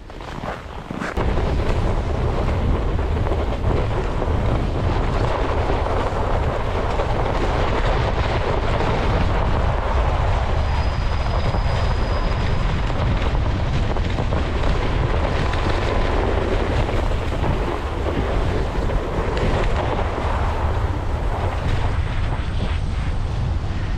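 Wind buffeting the microphone while cycling on a snowy trail: a loud, steady low rumble with hiss over it, setting in abruptly about a second in.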